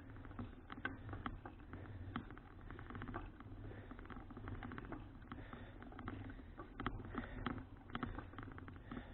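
Folding bicycle being ridden, heard through a bike-mounted action camera: irregular clicking and rattling, several a second, over a steady low rumble of wind and road.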